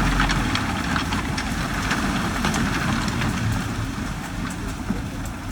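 Diesel engine of heavy earthmoving machinery running steadily, with scattered sharp clicks and clanks over it.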